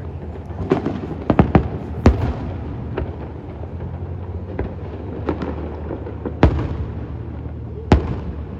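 Aerial fireworks shells bursting: a quick cluster of sharp bangs in the first two seconds, then single reports every second or so, with two of the loudest near the end.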